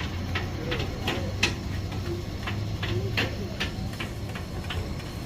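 Irregular sharp clicks and knocks of utensils, about two or three a second, over a low steady hum, with faint voices in the background.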